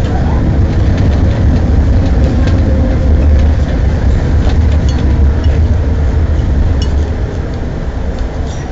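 Tram running on its track, heard from inside the car just behind the driver: a heavy low rumble with scattered clicks and rattles, easing somewhat near the end.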